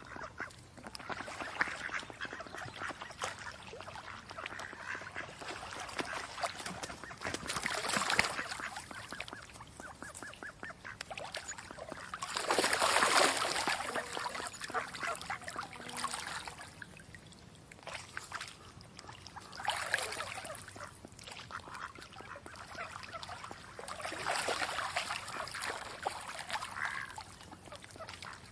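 Farmyard waterfowl calling in repeated bouts, loudest about halfway through.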